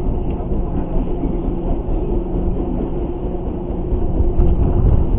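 Boat engine running steadily under way, a continuous low rumble with a faint steady hum through it.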